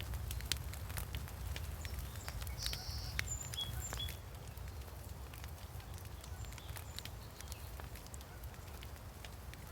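Forest ambience: scattered sharp clicks and crackles over a low steady rumble, with a few short bird chirps in the first half.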